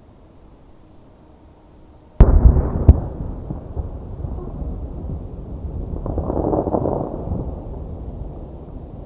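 Aerial firework shells bursting: a loud boom about two seconds in and a second sharp bang just after it, followed by a long rumbling tail that swells again a few seconds later and fades.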